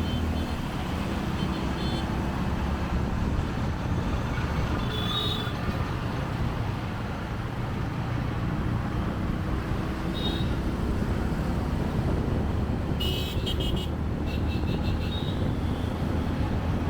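City traffic heard from a motorcycle on the move: a steady low engine and road rumble, with short high-pitched horn beeps from surrounding vehicles several times and a quick run of beeps near the end.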